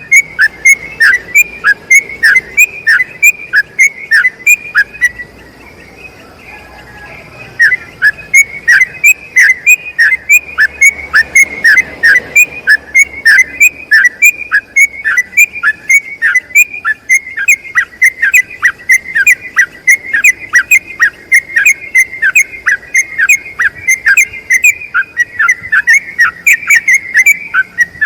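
Yellow-vented bulbul (trucukan) singing a long rapid run of short repeated falling notes, about three to four a second, broken once by a pause of about two seconds a few seconds in.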